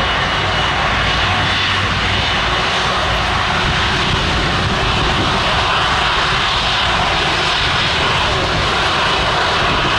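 Jet airliner engines running, a steady loud roar.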